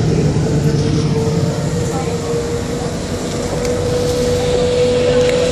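Bombardier Innovia APM100 rubber-tyred people mover running between stations: a steady motor whine that rises slowly in pitch as the train gathers speed, over a low rumble from the running gear.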